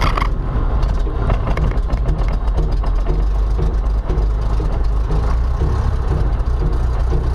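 Cessna 172's piston engine and propeller running steadily, a loud low drone.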